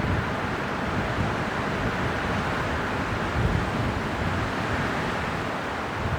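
Winter wind blowing steadily with slow swells in strength, plus a low rumble of wind buffeting the microphone.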